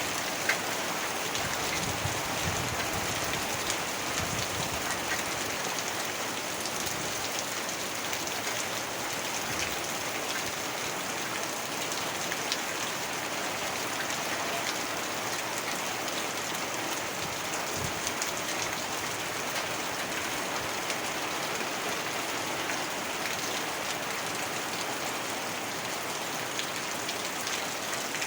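Heavy rain falling steadily, an even hiss with scattered sharper drop ticks.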